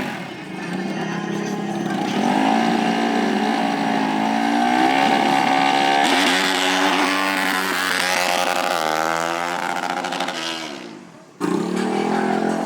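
Off-road racing engines of dirt bikes or ATVs at high revs, the pitch climbing as they accelerate and falling back several times. The sound breaks off abruptly about eleven seconds in, then engine noise resumes.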